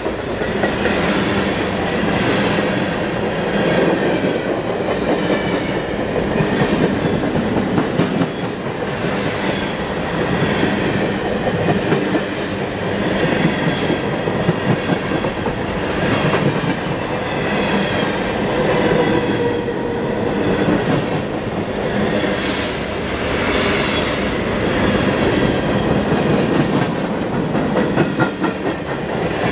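Freight cars of a long Canadian Pacific freight train rolling past close by: steady rumble with wheels clattering over the rail joints, and a faint high wavering squeal at times.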